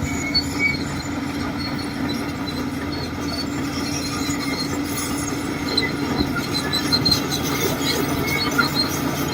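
Shantui DH17C2 crawler bulldozer running under work: a steady engine drone with scattered short, high metallic squeals.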